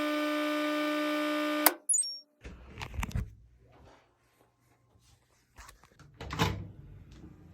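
Washing machine's end-of-cycle signal: a steady, buzzy tone that cuts off suddenly about a second and a half in. It is followed by scattered clicks and knocks, the loudest a clunk near the end.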